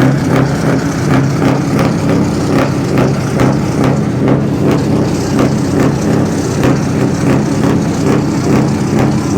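Engine idling steadily: a low, even hum with a light regular ticking about three times a second.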